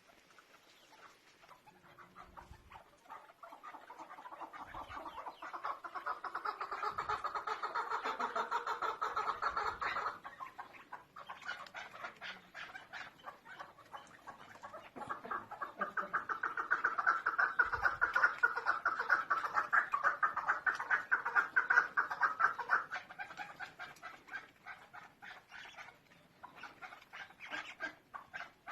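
Female chukar partridge calling: a fast run of clucking notes that swells in loudness over several seconds and breaks off, then a second, similar bout after a short lull.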